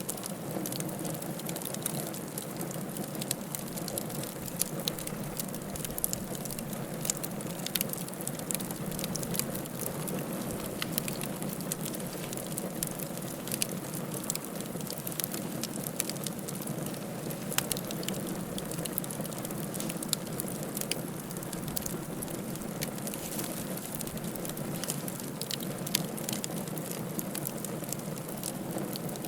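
Wood fire crackling in a fireplace: a steady low rush of burning with frequent irregular sharp pops and snaps.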